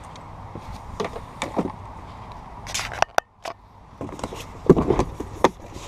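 Irregular knocks, clicks and clatter of a folding Oru kayak's plastic parts being handled and fitted during assembly, louder in a cluster near the end, with the sound cutting out briefly about halfway through.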